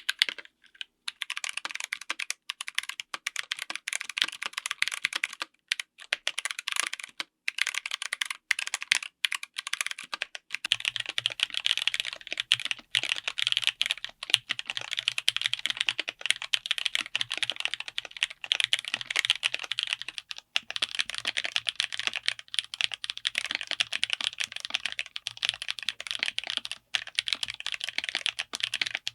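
Typing on a mechanical keyboard fitted with tactile switches: a dense, uneven run of keystroke clacks. About a third of the way in, the sound changes and gains a deeper low end.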